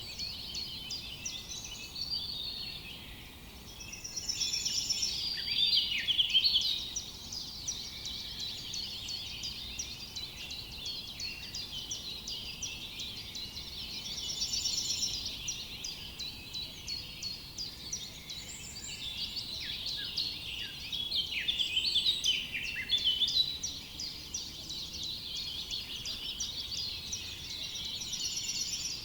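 A chorus of many songbirds chirping and trilling together in quick high notes, swelling louder twice.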